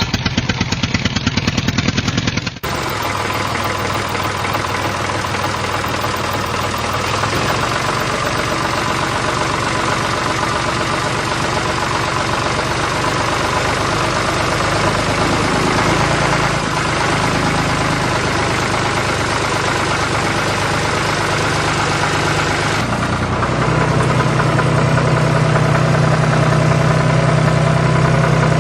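An engine running steadily at idle with a rapid pulsing beat. The sound changes abruptly about two and a half seconds in, and gets louder and deeper near the end.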